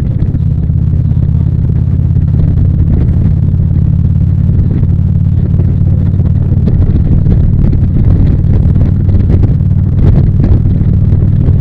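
Harley-Davidson V-twin motorcycle engine running steadily at an even cruising speed, its deep engine note unchanged throughout.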